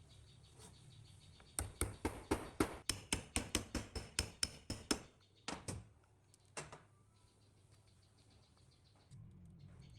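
A quick, even series of sharp knocks, about five a second for over three seconds, then three more single knocks before it stops.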